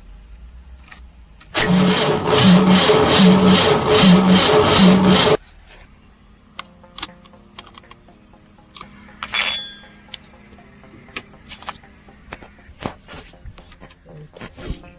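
Starter motor cranking a cement bulker truck's diesel engine for about four seconds, starting a couple of seconds in, with a pulse about one and a half times a second and no firing: the starter is 'taking load', dragging heavily. Scattered clicks and metal knocks follow.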